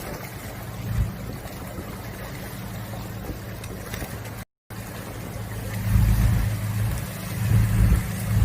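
Boat engine running steadily with a low hum, under wind and water noise; the sound drops out for a moment about halfway through, and low rumbles swell twice near the end.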